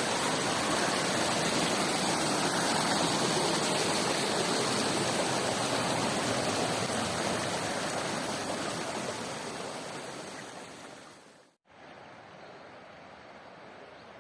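Loud, steady rush of a mountain stream's water. It fades over a few seconds and cuts off about eleven and a half seconds in, followed by a much quieter steady background hiss.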